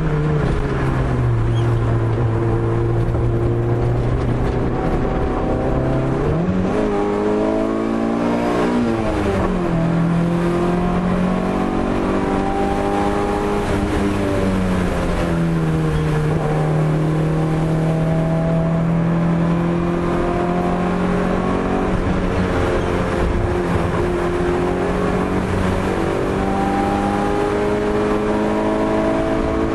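Opel Corsa A GSi's four-cylinder engine being driven hard. The revs drop early on, climb over a couple of seconds, fall sharply at a gear change about nine seconds in, then rise slowly through a long pull.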